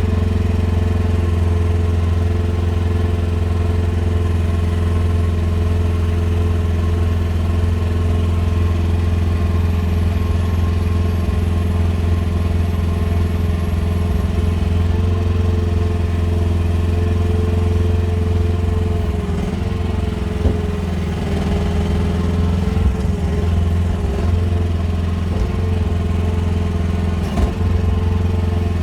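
Engine of a QH13R mini excavator running steadily under hydraulic work, its pitch sagging a little for a few seconds past the middle as it takes load, with a few light knocks.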